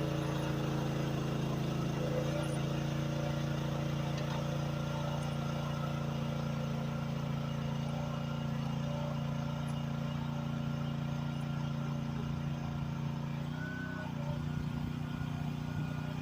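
Chinese 1-ton mini excavator's engine running steadily while it grades dirt. The note dips briefly about three-quarters of the way through, then settles again.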